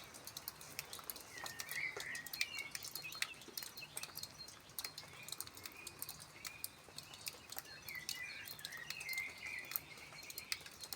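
Small birds chirping in short warbling bursts, mostly early on and again near the end, over many scattered faint ticks and clicks.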